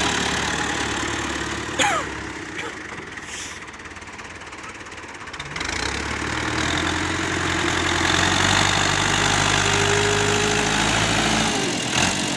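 Tractor diesel engine running steadily. It drops quieter for a few seconds about two seconds in, then comes back strong around six seconds. Near the start there is a brief falling squeal, and near the end a short click.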